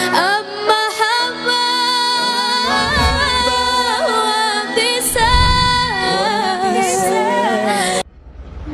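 A female voice singing an ornamented, gliding melody with held notes over instrumental backing and drum hits; the music cuts off abruptly near the end.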